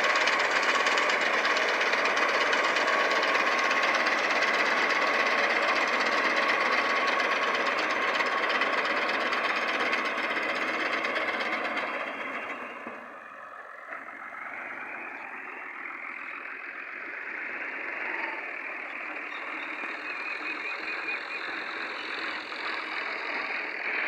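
Tractor engine running loudly and steadily; about halfway through the sound drops sharply and continues quieter, with a higher whine slowly rising.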